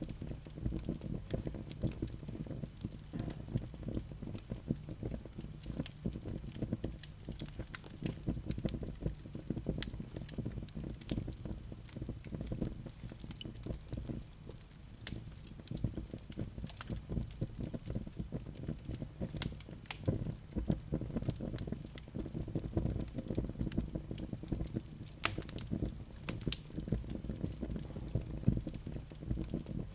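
Wood fire burning in a fireplace: a continuous low rumble of flames with many small irregular crackles and pops from the burning logs.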